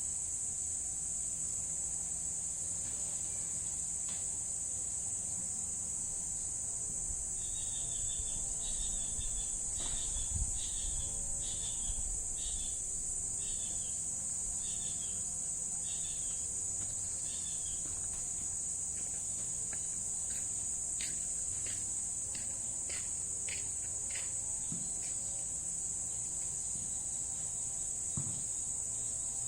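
A steady, high-pitched insect chorus of crickets or cicadas drones throughout. Partway in, about a dozen short high chirps repeat at an even pace for about ten seconds, followed by a few quicker chirps.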